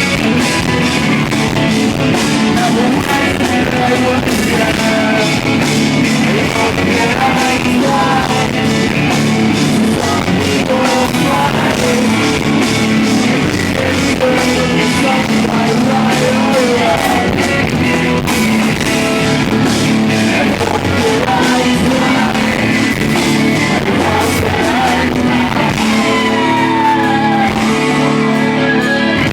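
Live rock band playing: electric guitars, bass and drums, with a singer whose voice sometimes rises to a yell. The band is loud and dense throughout, recorded from the floor of the room.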